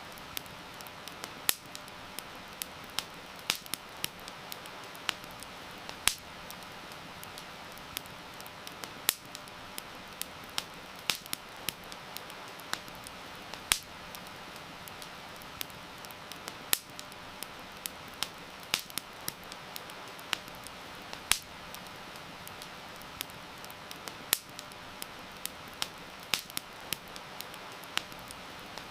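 Wood fire crackling, with sharp irregular pops several times a second over a steady hiss of heavy rain.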